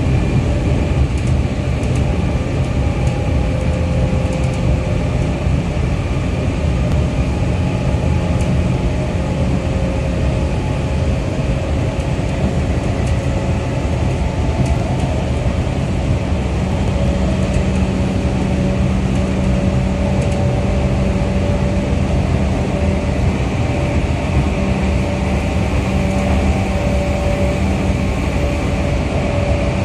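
Running noise inside a JR 211 series electric train car: a steady rumble of wheels on the rails with a low hum and a few faint steady tones, the hum growing stronger about halfway through.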